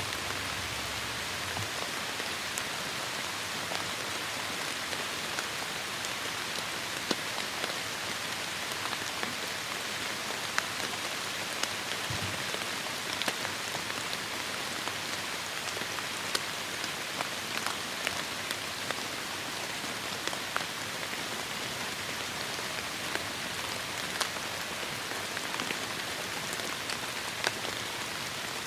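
Heavy rain falling steadily, a dense hiss with sharp drops ticking through it.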